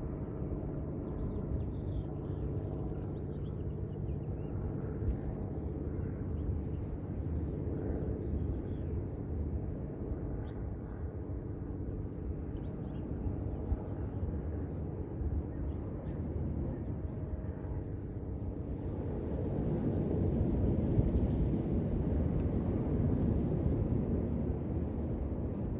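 Low, steady engine-like rumble with a hum, swelling louder about three-quarters of the way through, with a few faint short seagull calls above it.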